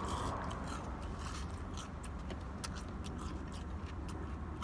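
Close-up chewing of crispy fried food: many small, irregular crunchy crackles over a steady low hum.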